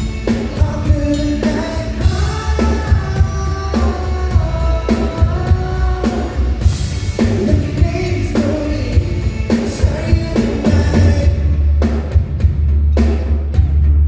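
Live band playing a pop-rock song with a lead vocal over drum kit and bass. Near the end the singing drops out and drums and bass carry on.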